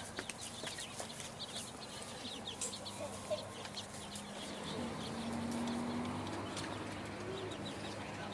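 Birds chirping: many short, high chirps, with a faint low tone about five seconds in.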